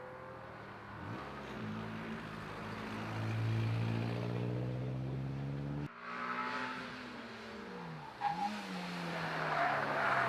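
A car engine accelerating hard, its pitch rising steadily as it revs and grows louder. About six seconds in, the sound cuts abruptly to another car's engine, which drops in pitch at a gear change and then climbs again as it pulls away.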